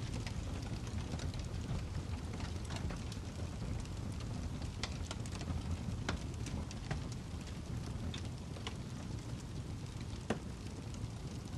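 Log burning in a wood fireplace: a steady low rumble of the flames with frequent sharp crackles and pops, one louder pop about ten seconds in.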